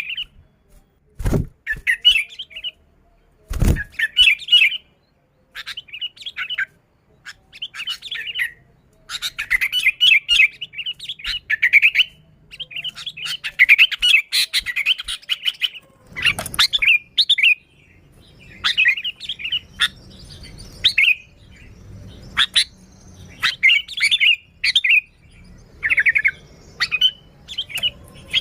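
Sooty-headed bulbul (kutilang) singing lively, chattering phrases, some short and some running on for a few seconds, with brief pauses between. Two low thumps in the first four seconds.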